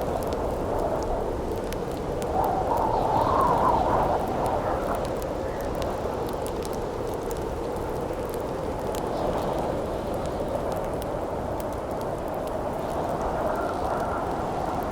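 Howling wind with a gust that swells and rises in pitch about three seconds in, over the light crackle and pop of a burning campfire.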